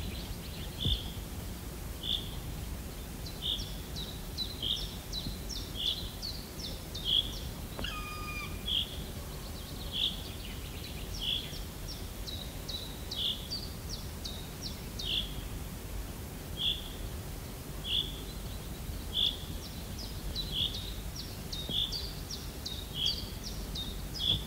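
A bird calling over and over, a short high call about once a second, over steady low background noise. About eight seconds in, a faint falling whistle comes once.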